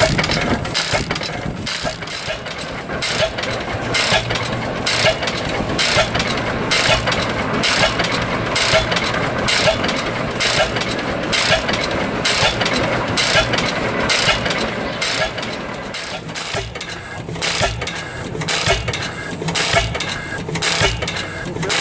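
1915 International Titan 10 hp stationary engine running steadily, with a regular sharp beat about twice a second over a low mechanical hum. It is throttle-governed, so it fires on a steady rhythm rather than hitting and missing.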